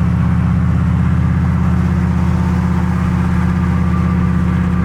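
Turbocharged 6.0 Chevrolet Silverado V8 cruising at a steady speed, its engine and exhaust heard inside the cab, with the exhaust running right under the cab.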